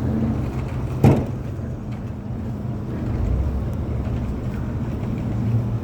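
Steady low rumble of an idling engine, with one sharp knock about a second in.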